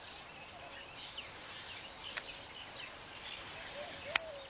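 Outdoor field ambience: an insect chirping in a steady pulse about twice a second, with faint scattered bird chirps and one sharp click about four seconds in.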